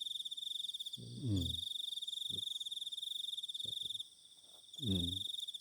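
Night insects, crickets or katydids, chirping steadily in a high, pulsing trill that stops for a moment about a second in and again for most of a second near the end. A person's voice is heard briefly twice, once about a second in and once near the end.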